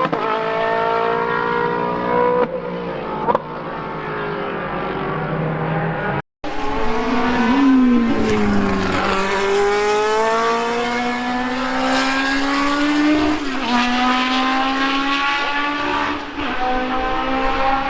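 Racing car engines at speed on a circuit, their pitch climbing under acceleration and falling back briefly at each gear change. About six seconds in the sound cuts out for a moment, then one engine pulls up through the gears.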